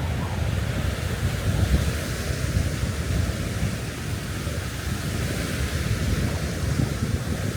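Strong wind buffeting the microphone with an uneven low rumble, over a steady hiss of surf and rain on the beach.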